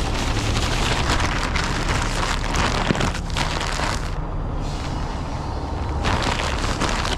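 Strong gusting wind buffeting the microphone, a rough rushing roar over a heavy low rumble, easing briefly about four seconds in.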